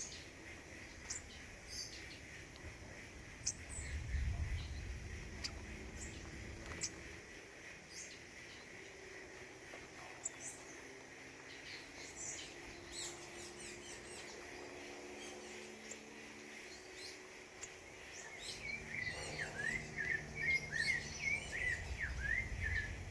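Small forest songbirds calling: scattered short high chirps, then near the end a quick run of down-slurred notes. A brief low rumble comes about four seconds in.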